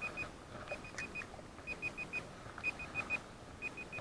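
Timer alarm beeping in quick groups of four short high beeps, about one group a second: the 30-minute time limit running out.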